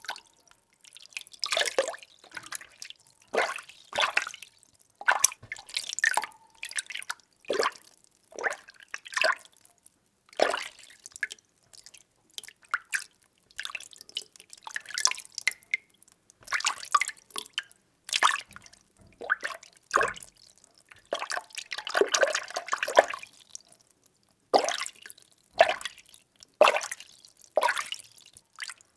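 Water being stirred by hand in a small container: short irregular swishes and sloshes, about one or two a second, with brief quiet gaps between them.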